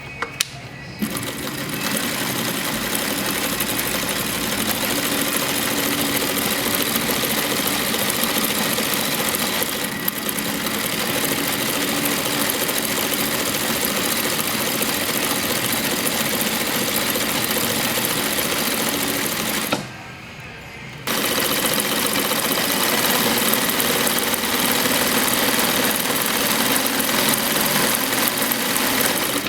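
Atlas AT2284 three-step zigzag industrial sewing machine running steadily as it stitches. It starts about a second in after a few clicks, stops briefly about two-thirds of the way through, then runs on.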